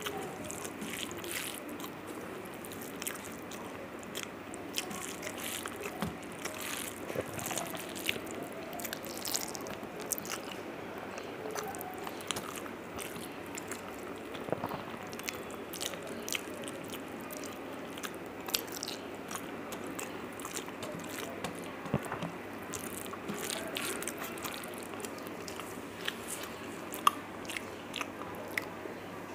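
Close-miked chewing of rice and fish, with many small wet mouth clicks, and fingers squishing and mixing rice on a steel plate. A couple of sharper clicks stand out near the end.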